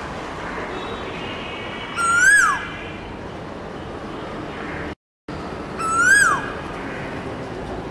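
A bird's clear whistled call, rising slightly and then dropping steeply, repeated twice over a steady hiss. About five seconds in, the sound cuts out completely for a moment.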